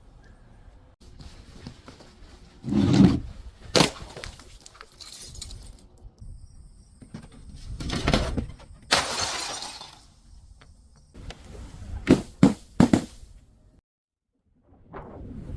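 Glass bottle breaking and being crushed: a series of crunches and sharp cracks of shattering glass, with a long grinding crunch in the middle and three quick cracks near the end.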